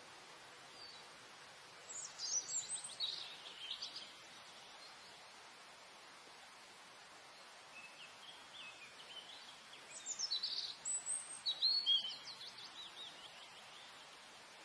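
A songbird singing, with two main song phrases about two seconds in and again about ten seconds in. Each phrase is a quick run of high notes dropping in pitch. A steady hiss of background noise runs underneath.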